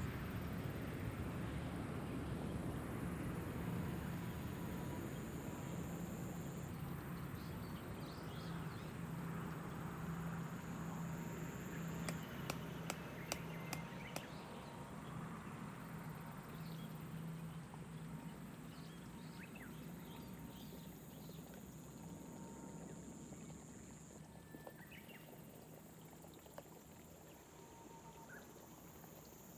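Soft steady rain over rice terraces, slowly fading, with scattered short bird chirps and a steady high insect buzz. A quick run of sharp clicks comes near the middle.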